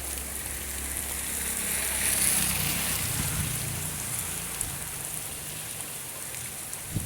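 Heavy rain falling, a steady hiss of rain on surfaces that swells a little about two seconds in.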